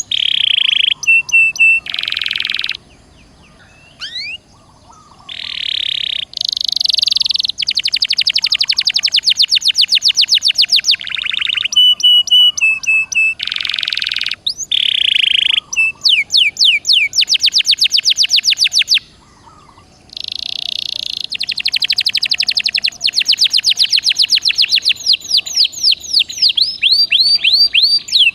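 Domestic canary in full song: a long, loud run of buzzy rolls and fast trills of rapidly repeated sweeping notes, pausing briefly twice.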